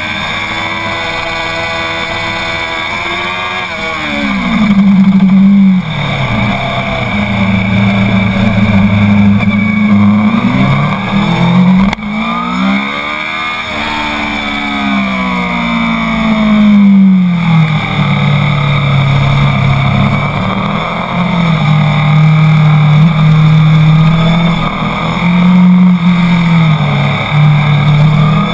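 Honda CBR1000 sport bike's inline-four engine recorded on board at full throttle on a race track, its revs climbing through the gears and falling away as it slows for corners, several times over.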